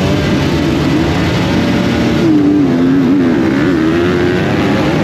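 Motocross bike engine running hard under throttle, its pitch rising and falling as the rider works the throttle and gears.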